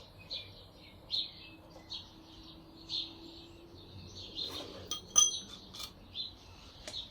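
A bird chirping repeatedly in the background, with a few sharp metallic clinks of tools or bolts about five seconds in.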